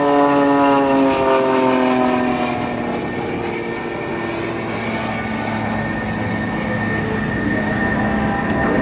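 Extra 300L aerobatic plane's engine and propeller note falling in pitch over the first few seconds as the throttle comes back, then droning on steadily at the lower power.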